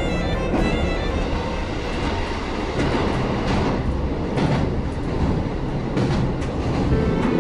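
KiHa 40 diesel railcar running, heard from inside the cab: a steady rumble of engine and wheels on the rails, with a few clacks over rail joints in the middle.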